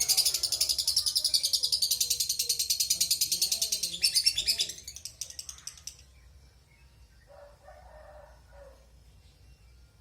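Lovebird giving a long, rapid, high-pitched chattering trill, about ten notes a second, that breaks off about five seconds in.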